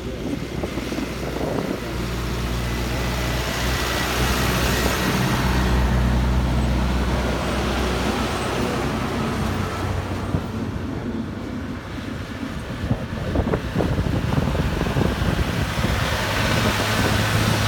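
Motorcycle engine running steadily while riding, its low note shifting a few times, with wind rushing over the microphone.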